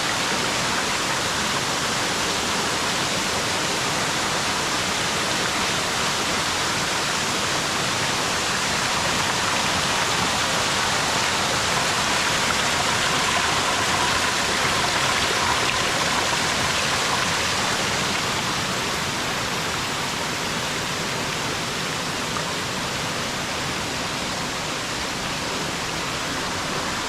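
Waterfall's steady rush of falling water, swelling slightly midway.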